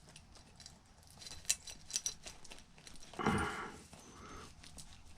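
Light clicks, ticks and scraping of hands and a tool working a glued copper yoke loose from the neck of a small picture tube, with a brief louder sound about three seconds in.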